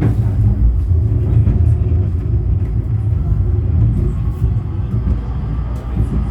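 Cabin of a 71-911EM "Lvyonok-M" low-floor tram under way: a steady low rumble of the running gear on the rails, with a few faint clicks.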